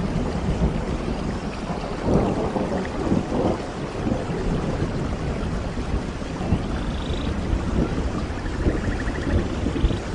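Steady rain with a low, rolling rumble of thunder that swells about two seconds in and again shortly after.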